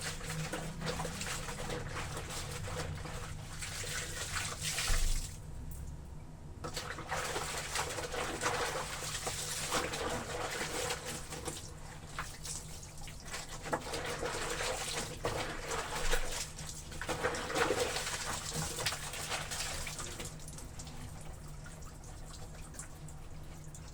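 Wet laundry being trodden underfoot in a basin of soapy water: irregular sloshing and squelching, with a few louder splashes.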